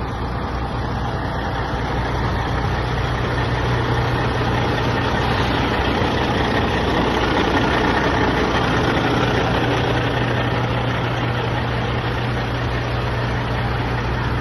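A large truck's engine running steadily at idle, a constant low hum under an even rumble.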